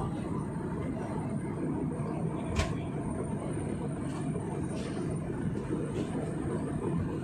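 Steady rumble of an airliner's cabin, with a faint high whine running through it and a single click about two and a half seconds in.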